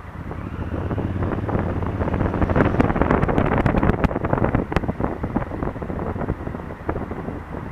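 Wind rushing over an action camera on a moving Honda Africa Twin CRF1000L, with the bike's parallel-twin engine running underneath. The noise swells to its loudest about three to four seconds in, then eases off.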